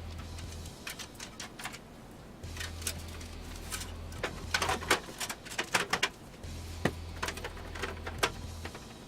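Clicks, taps and clatter of plastic and metal PC case parts being handled and fitted, busiest around the middle, over a low hum that stops and restarts twice.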